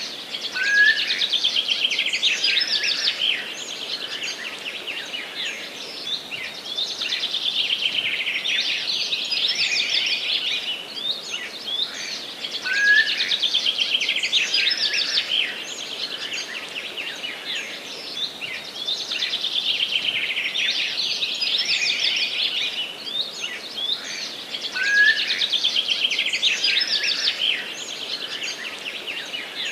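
Forest songbirds singing: one bird repeats a fast trilled phrase of a few seconds over and over with short gaps, its loudest phrases about every twelve seconds, over fainter birdsong.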